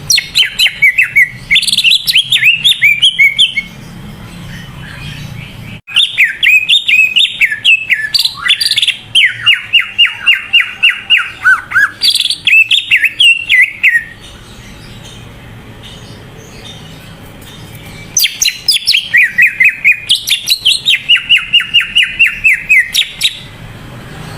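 Cucak ijo (green leafbird) singing vigorously in three loud bouts. Each bout is a fast string of sweet, slurred chirps and falling trills, with short pauses between bouts.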